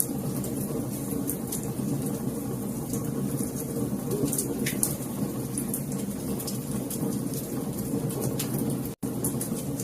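Wood fire crackling, with frequent sharp pops and snaps over a steady low rumble of the burning fire. The sound cuts out for an instant about nine seconds in.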